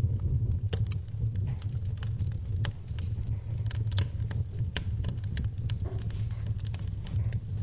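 Wood fire in a fireplace crackling, with irregular sharp pops several times a second, over a steady low rumble and soft rain in the background.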